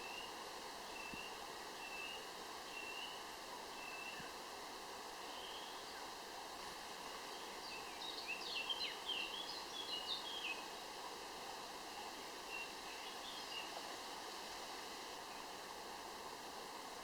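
Countryside ambience of small birds calling over a steady soft hiss: short repeated notes about once a second at first, then a quick flurry of twittering chirps in the middle, and a few more later.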